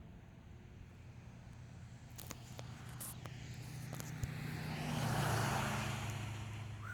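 A motor vehicle passing on the road: its engine hum and tyre noise build up, are loudest about five seconds in as the engine note drops, then fade away.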